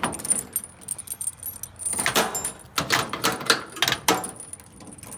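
A bunch of keys jangling and clinking in short, irregular clusters of metallic clicks.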